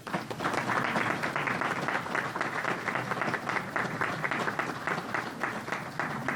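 Audience applauding in a hall: many people clapping, starting suddenly and holding steady, then thinning out near the end.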